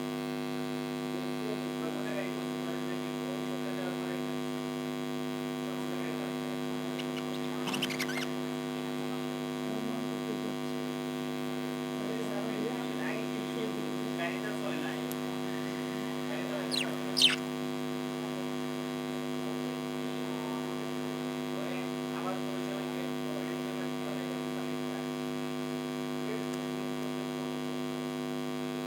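A steady electrical hum runs throughout, with faint budgerigar chirps and chatter scattered over it. Two short, sharp high sounds stand out, the louder about two-thirds of the way through.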